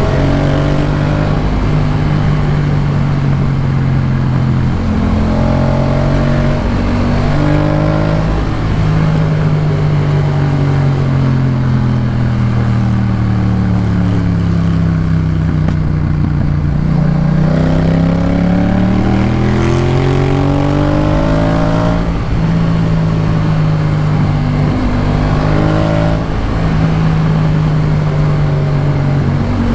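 Yamaha MT-07 parallel-twin engine through a Jeskap K4 full exhaust, ridden on the road. It holds steady revs with brief breaks at gear changes, winds down from about ten seconds in, then builds revs again from about seventeen seconds and shifts up.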